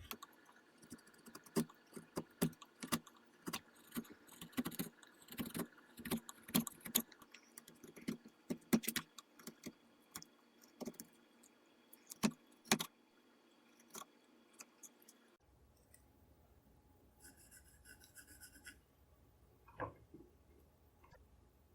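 Wood chisel paring away the sides of a walnut rifle stock blank: a quick, irregular run of sharp cuts and cracks for about fifteen seconds that then stops abruptly. A brief scratching and a single knock follow near the end.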